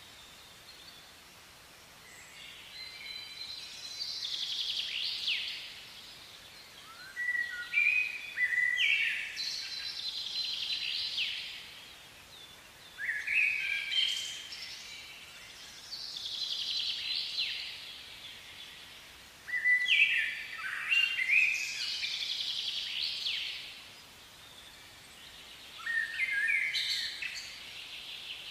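A songbird singing in bouts of quick, high sweeping notes, each bout a few seconds long and repeated about every six seconds, five times, over faint steady outdoor background noise.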